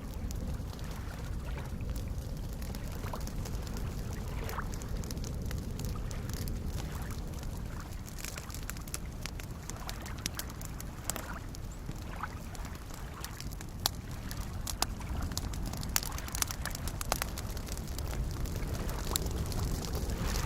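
Campfire crackling with scattered sharp pops, more frequent in the second half, over soft lake waves lapping in a low, swelling wash.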